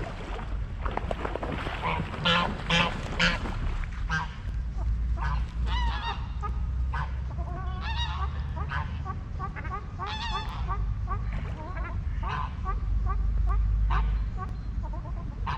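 Waterfowl calling on a lake: a long run of short, repeated calls, several birds at once, over a steady low rumble.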